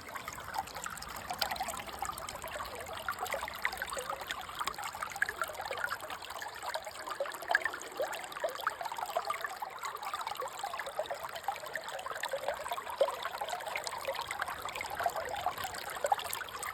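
Water trickling and splashing steadily over a small gold sluice set in a mortar pan, with a dense patter of little splashes and no let-up.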